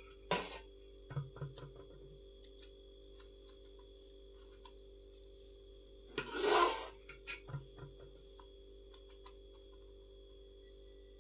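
Short rubbing and scraping noises with a few light knocks, the loudest a brief rub about six seconds in, over a steady faint hum.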